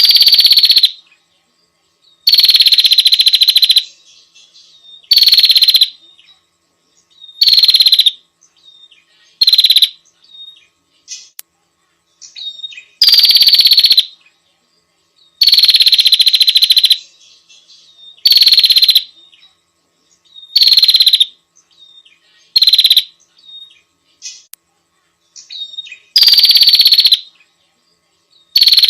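Recorded small songbird song: loud bursts of rapid trilling about a second long, repeated every two to three seconds. Each burst opens with a high note that slides down and settles on one steady pitch, and there are faint short calls in between.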